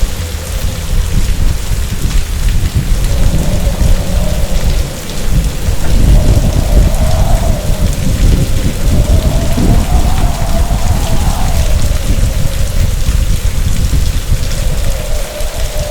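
Heavy storm rain pouring down, with deep thunder rumbling, strongest from about six seconds in. A thin wavering whine rises and falls over it.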